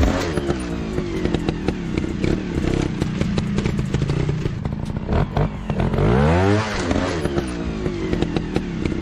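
A motorcycle engine running, revving up and back down once about six seconds in, over a rapid clatter of knocks and scrapes.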